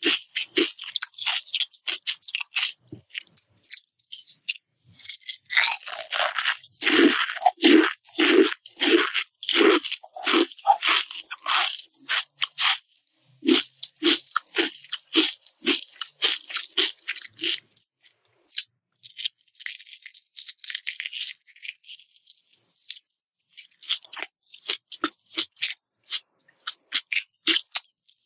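Close-miked eating, first crunching and chewing Pringles potato crisps in rapid bouts of crisp cracks. Then comes chewing of a piece of savory martabak pancake, the crunching thinning out and quieter in the middle before picking up again near the end.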